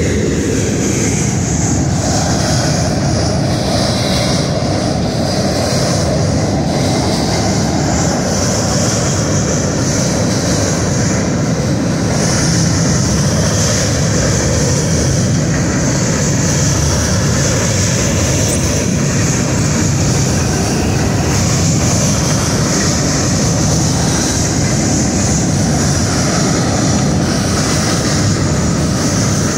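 CSX freight train of covered hopper and tank cars rolling across a steel railroad drawbridge: a steady, continuous noise of steel wheels on the rails.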